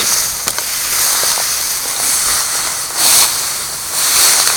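Dry weeds and brush rustling and crackling as people push through them on foot, a steady hissy rustle that swells about three seconds in.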